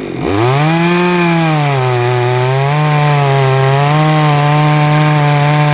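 Chainsaw cutting through wood at high throttle. Its engine note dips sharply at the start, climbs back, then holds high with a slight wavering as it labours in the cut.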